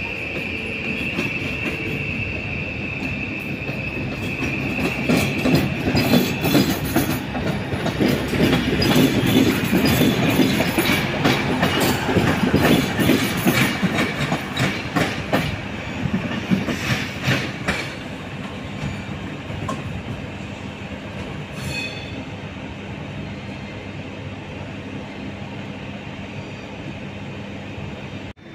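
A train moving on the rails. Its wheels squeal with a steady high tone for the first few seconds, then a long run of rapid clicks and clatter from the wheels over rail joints and points, loudest in the middle. The clatter fades to a quieter rumble for the last third.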